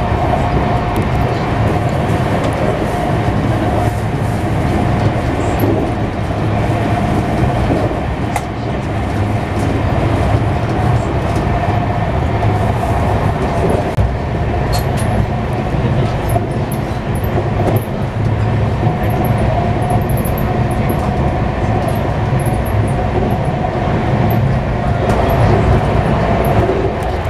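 Running noise inside a Gatimaan Express passenger coach at about 150 km/h: a steady, loud rumble of wheels on rail with a faint clickety-clack and a steady hum.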